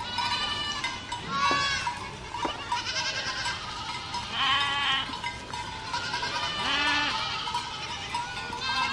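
Goats bleating: about six wavering calls in quick succession, some overlapping.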